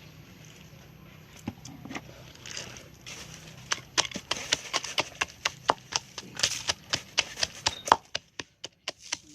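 Knife chopping on a wooden cutting board. A few scattered knocks come first, then rapid, irregular strokes of about three to four a second from about three seconds in, pausing briefly near the end.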